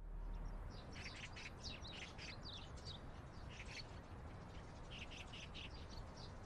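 Small birds chirping faintly, many short high calls coming in quick clusters, over a low steady background hum.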